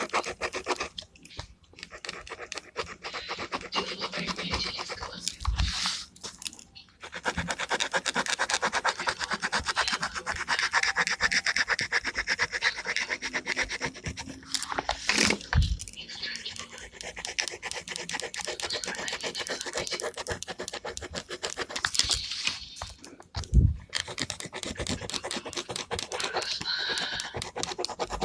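Gel pen rubbing on paper in fast back-and-forth strokes while colouring, in long runs with a few short pauses and an occasional knock.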